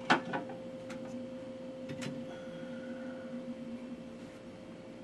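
Objects handled and set down: a sharp knock just after the start, then a few lighter clicks over the next two seconds, over a steady electrical hum.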